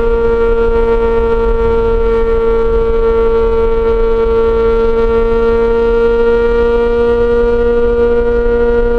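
Yamaha XJ6 S inline-four engine running at steady high revs through an SC-Project exhaust, holding one constant, humming note. A low rumble runs underneath.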